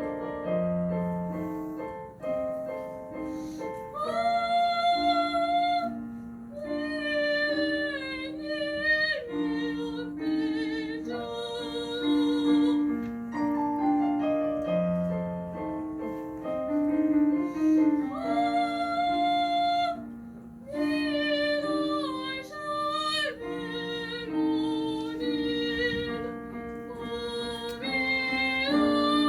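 Solo soprano singing an operatic aria with vibrato over piano accompaniment. The piano plays alone for the first few seconds before the voice comes in, and the voice then sings in long phrases with brief breaths between them.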